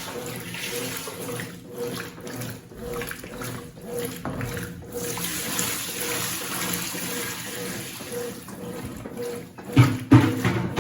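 Water running and splashing in a Consul 8 kg washing machine, with a faint steady hum under it. Two loud low thuds come near the end.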